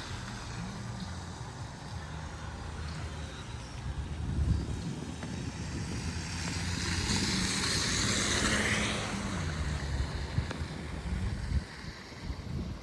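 A motor vehicle passing on a city street: a steady low engine rumble with a swell of tyre and road noise that builds to its loudest a little past the middle and then fades.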